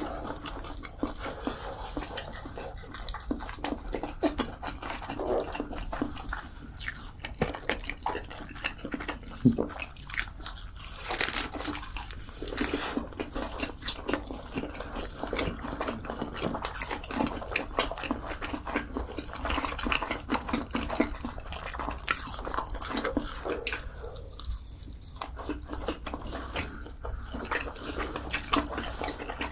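A person eating close to the microphone: irregular chewing and biting with wet mouth sounds, mukbang style.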